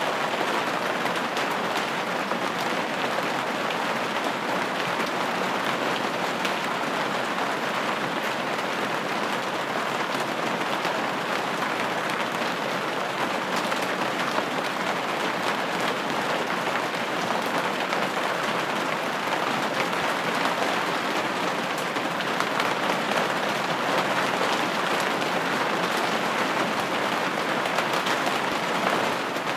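Steady rain falling on a window pane, an even wash of patter with fine individual drop taps.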